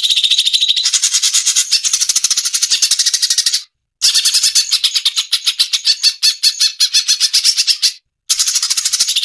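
Cucak cungkok song: a fast, dense chattering run of many quick notes, stopping briefly twice, about four seconds in and again near the end, before starting up again.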